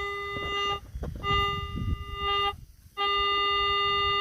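Metal detector target tone: a steady, organ-like beep that sounds three times, each about a second long with short breaks between, as the coil passes back and forth over a buried coin that the detector reads as a penny.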